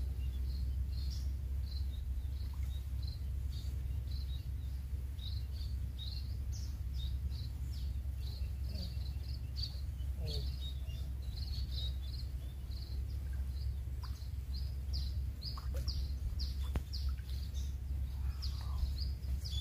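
Small birds chirping, short high notes repeated several times a second, over a steady low rumble.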